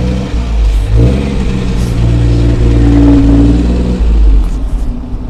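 Classic racing car engine running hard under acceleration, with a break in pitch about a second in like a gear change, then easing off about four seconds in.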